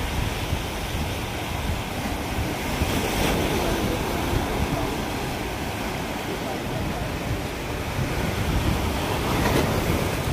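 Sea waves washing onto the shore, with wind buffeting the microphone as a low, uneven rumble.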